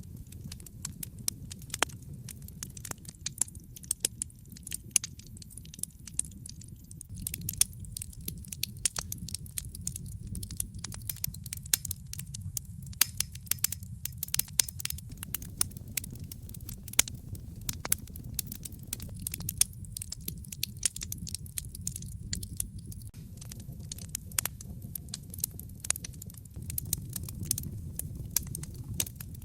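Fire burning in a fireplace: irregular sharp crackles and pops over a steady low rumble of flames.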